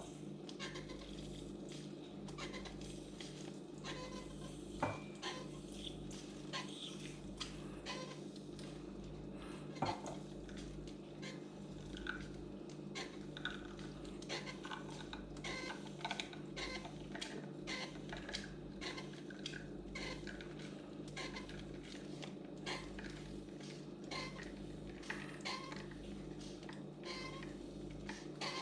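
Wacaco Minipresso NS portable espresso maker being hand-pumped, its plunger worked over and over with a long run of small irregular clicks as it pushes hot water through a Nespresso capsule.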